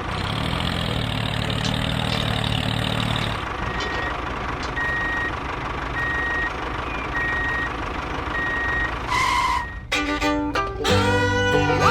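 Vehicle reversing alarm beeping at a steady pitch about once a second over a running engine. Near the end, banjo-led bluegrass music starts.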